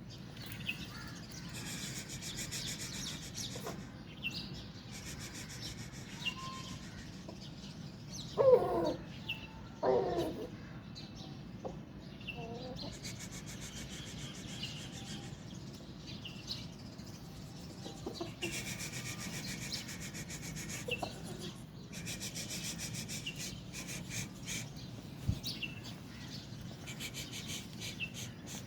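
Chickens calling, with two louder, short pitched calls about eight and ten seconds in, over scattered high bird chirps and a steady background noise.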